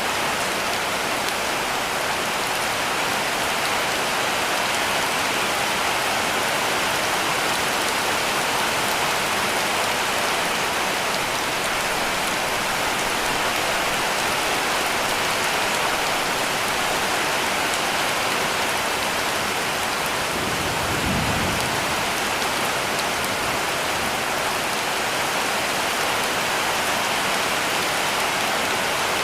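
Heavy rain drumming steadily on a cabin roof, a dense even hiss. About two-thirds of the way in there is a brief low rumble.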